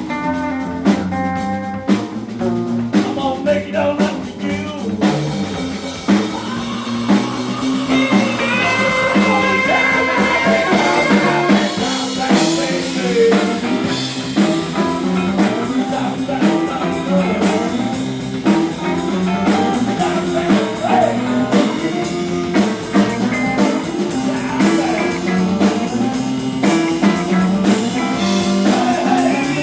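Live blues-rock band playing, with electric guitar, bass and a drum kit, and singing.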